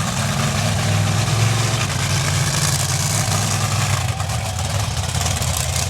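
Monster truck engine running steadily at a low idle, a deep continuous drone under loud hiss.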